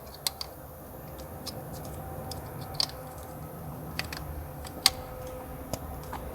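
Scattered light clicks and taps at an irregular pace, with a few sharper ones near the middle and just before the end, over a faint steady low hum.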